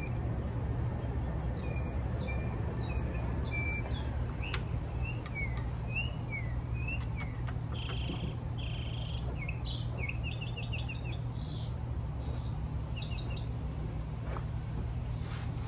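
Small birds chirping: a string of short, varied high notes, with quick trills about two-thirds of the way through, over a steady low background rumble.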